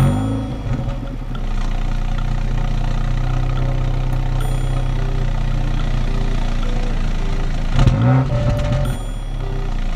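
Honda Fit GE8's 1.5-litre four-cylinder engine catching right at the start and settling into a steady idle, with one brief blip of the throttle about eight seconds in.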